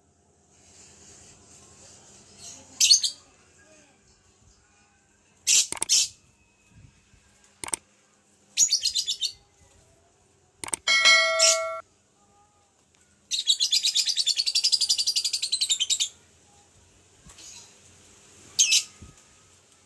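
Lovebird calling in sharp, high chirps, then breaking into a long, rapid chattering trill of nearly three seconds in the second half; the bird is singing again after recovering from snot, a respiratory illness. A short, steady ringing tone is heard about eleven seconds in.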